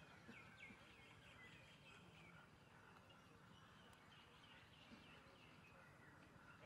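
Near silence: quiet open-air ambience with small birds chirping faintly.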